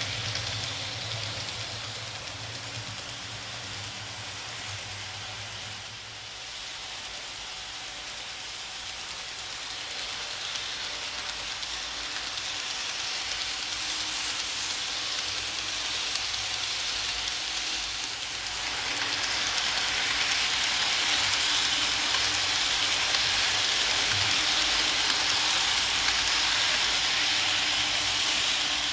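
KATO N-gauge E353 series model train running on layout track: a steady rolling hiss of small wheels on the rails over a low motor hum. The sound grows louder about two-thirds of the way through.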